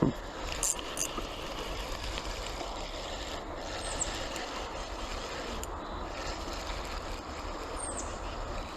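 Steady rushing of river water flowing over rocks, with a few faint clicks near the start.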